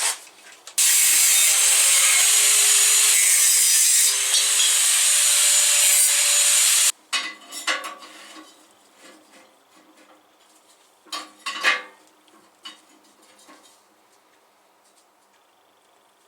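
A power cutting tool grinds through metal for about six seconds, starting and stopping abruptly, with a faint motor tone that sags and recovers under the load. A few knocks and clanks of metal pieces being handled follow.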